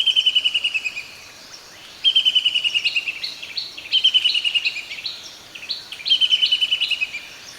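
Black-capped kingfisher calling: a rapid chattering trill of quick notes that falls slightly in pitch, about a second long, repeated four times about every two seconds.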